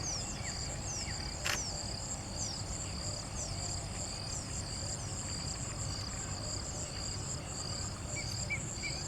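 Insects chirring steadily in a high pulsing trill, with short falling chirps about twice a second and a low rumble of background noise. A single sharp click sounds about a second and a half in.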